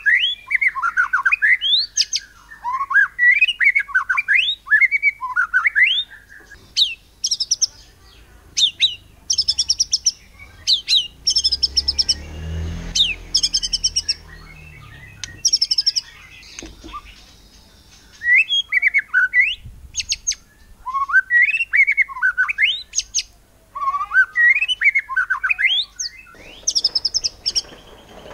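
White-rumped shama (murai batu) singing in its forceful 'nembak' style: quick phrases of whistles that swoop up and down, with a stretch of rapid, high-pitched repeated notes in the middle before the swooping phrases return.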